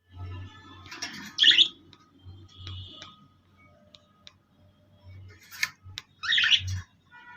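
Pet birds calling in a small room: quiet scattered chirps, with two loud harsh calls, one about a second and a half in and another about six and a half seconds in.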